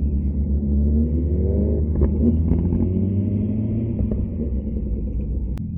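Vehicle engine accelerating, its pitch rising from about a second in, over a steady low rumble.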